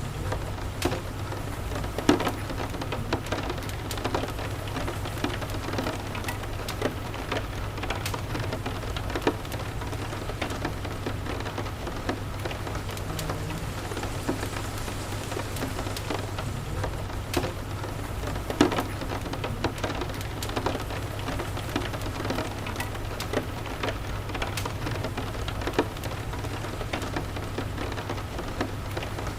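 Steady rain falling, with a wood fire crackling in scattered sharp pops, a couple of them louder, over a low steady rumble.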